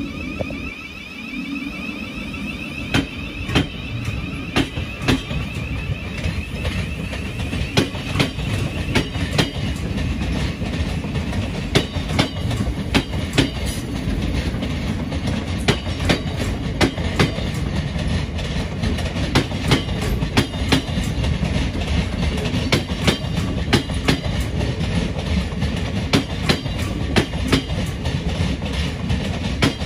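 Thameslink Class 700 electric multiple unit running past over pointwork, with a steady low rumble and a run of irregular clicks as its wheels cross rail joints and points.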